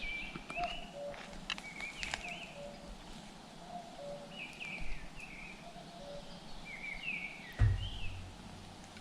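Outdoor birdsong: repeated short chirping phrases that rise and fall in pitch, with some lower notes beneath them. There are a few sharp clicks about a second and a half in, and one dull thud near the end, the loudest sound.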